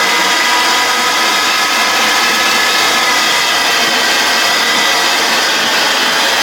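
iDog tennis ball launcher's motors running steadily, a loud whirring hiss with a faint whine that sags slightly in pitch; the machine is powered up and working after its faulty interlock was bypassed.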